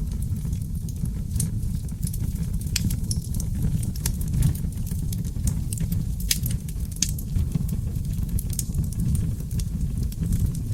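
Seasoned oak logs burning in an open fireplace: a steady low rumble from the flames, with irregular sharp crackles and pops.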